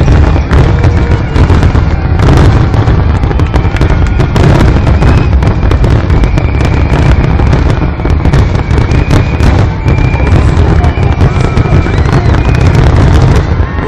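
Fireworks finale: a dense, continuous barrage of shells bursting with booms and crackles, one on top of another, with no break.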